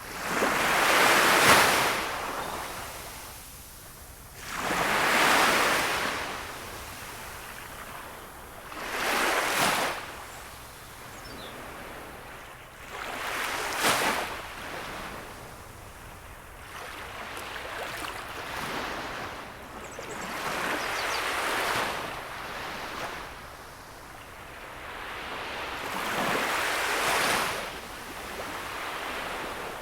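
Gentle sea waves breaking and washing on the shore, a swell of surf every four or five seconds, some louder than others, over a steady wash of water.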